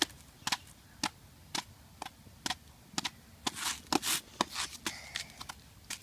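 A crunchy snack being chewed: sharp crunches about twice a second, with a longer crunch about four seconds in.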